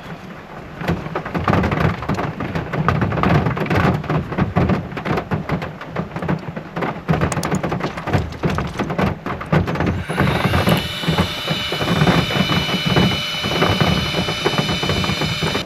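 Heavy rain pouring down, a dense continuous pattering of drops. About ten seconds in, a set of steady high tones joins it.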